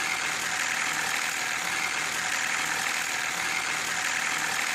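Car engine running with a steady metallic rattle, the sound of a loose timing chain rubbing against the inside of the engine. It could be due to worn or displaced spring-loaded chain tensioners.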